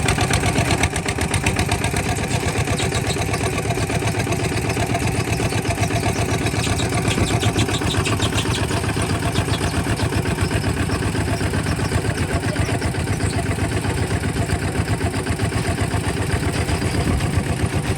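Kubota RT 140 DI single-cylinder diesel engine running steadily, with an even, rapid chugging pulse.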